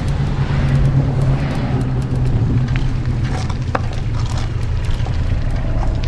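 Bicycle ride heard through a GoPro Hero 8 Black strapped to the bike: a steady, loud low rumble of tyres and wind on the camera, with scattered clicks and rattles.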